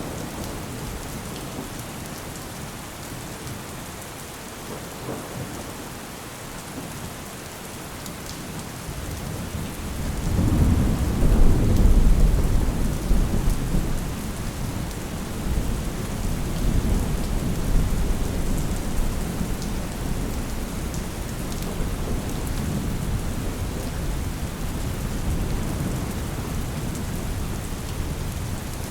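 Steady rain with a roll of thunder: a deep rumble builds about ten seconds in, is loudest a couple of seconds later, then eases into a long, lower rumble under the rain.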